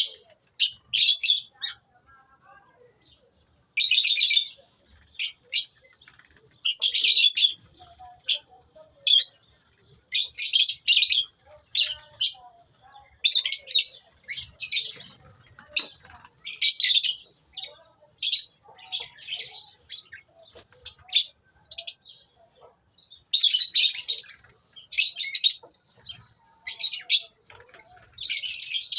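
Lovebirds in a colony chirping, with sharp, high-pitched calls in short bursts repeating irregularly every second or so.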